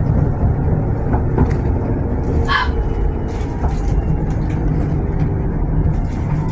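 Tram running on its rails with a steady low rumble, and a brief high squeal about two and a half seconds in.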